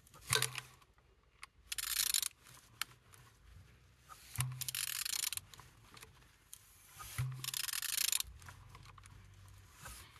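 Used car engine being turned over by hand: a rubbing, rasping noise in several repeated strokes a few seconds apart as the crankshaft is rotated. The engine turns freely, not seized.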